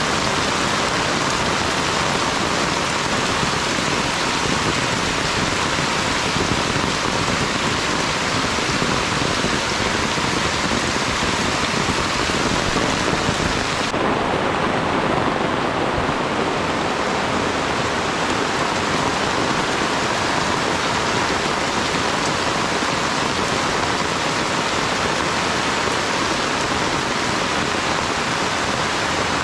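Steady rain falling in the countryside, a dense, even hiss. About halfway through, the highest part of the hiss drops away suddenly.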